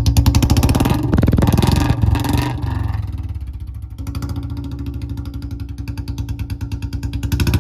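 Royal Enfield Bullet single-cylinder engine running through a long Punjab-style silencer on a bend pipe, idling with an even thumping beat. It is revved about a second in and again near the end.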